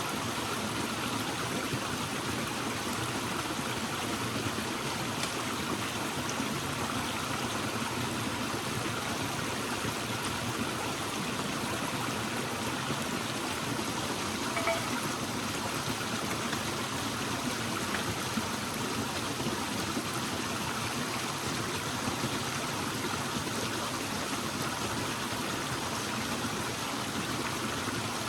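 A stream of running water, a steady rush with some gurgling, with a faint tick about halfway through.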